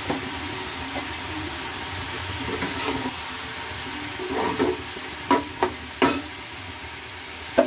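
Spinach and vegetables sizzling in a kadai while being stirred, with the spatula knocking sharply against the pan four times in the second half.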